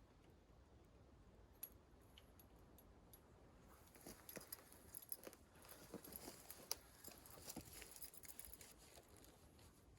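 Near silence with faint, scattered small clicks and light rustles, most of them from about four seconds in.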